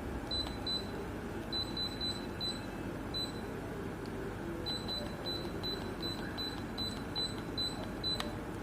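Short, high electronic beeps from the Sharp AH-AP12MHL split air conditioner, sounding repeatedly as it takes commands, in a fast run of about three a second in the second half, over the unit's steady running hum. A single sharp click comes near the end.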